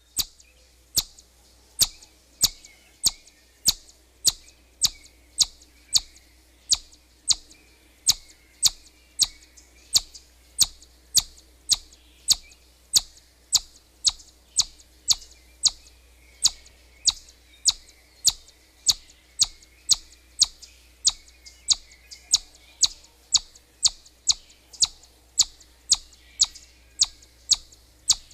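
Siberian chipmunk giving its alarm whistle: short, sharp, high-pitched chirps repeated evenly, about three every two seconds, on and on.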